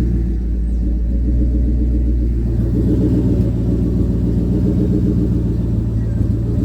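Engine running steadily with a deep rumble, its note shifting slightly about two and a half seconds in.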